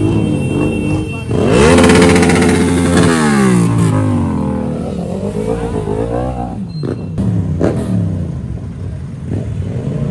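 Motor vehicle engines revving: the pitch climbs sharply about a second and a half in, holds briefly, then falls away over the next two seconds, with engines running on under it.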